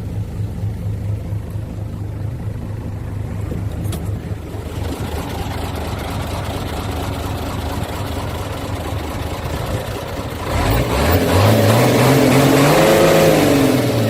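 1992 Mitsubishi Fuso Fighter truck's diesel engine running at a steady idle, then revved once near the end: the pitch climbs, peaks and falls back.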